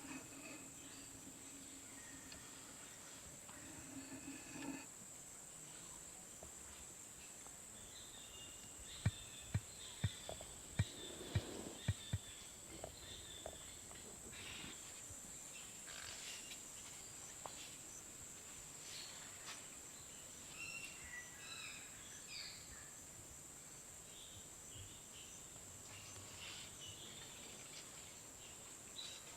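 Faint outdoor nature sound: a steady high-pitched insect drone with scattered short chirps, typical of birds or insects. About a third of the way in comes a quick run of some eight sharp knocks.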